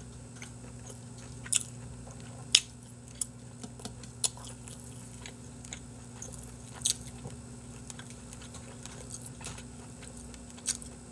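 Close-miked eating sounds: scattered short wet clicks and smacks of chewing grilled chicken skewer meat, over a faint steady low hum.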